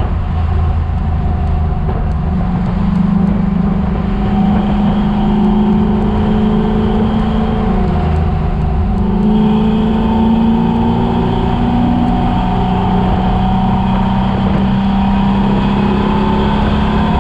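Chevrolet Chevelle engine running hard on a race track, its note rising and falling as the car accelerates and eases off through the corners.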